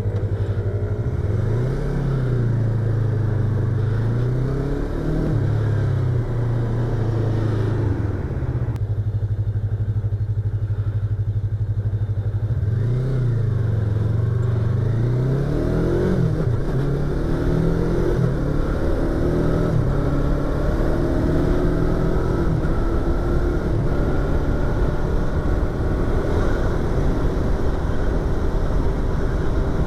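Yamaha YZF-R25's parallel-twin engine, heard from inside the rider's helmet: it idles with the revs blipped up and down a few times near the start and again about 13 seconds in, then pulls away and accelerates through several gear changes.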